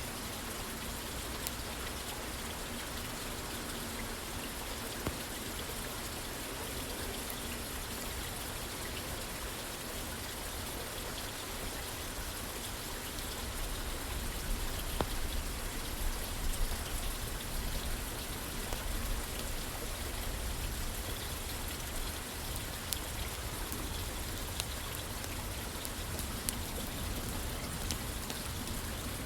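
Steady rain falling on a roof, an even hiss of drops, with scattered small clicks and a few louder snaps about halfway through.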